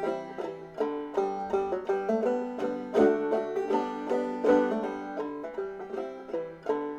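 Bruce Berry cherry-and-ebony banjo with a raw brass White Lady tone ring and a crocheted damper, played as a sound sample: a quick, continuous run of picked notes.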